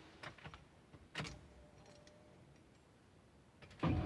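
A few faint clicks of a key in a Ford F-150 pickup's ignition. Just before the end the starter motor begins cranking the V8 engine.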